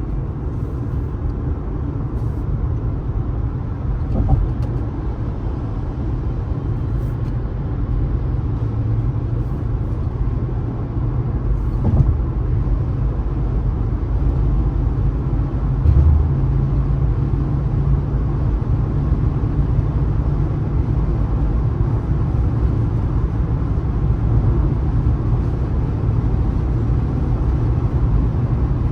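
A car driving at highway speed: a steady low rumble of engine, tyres and road, with a few short thumps.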